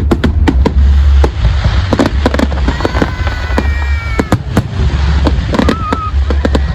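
Fireworks display: a rapid string of bangs and crackles, with a few drawn-out tones near the middle, over a steady low rumble of wind on the microphone.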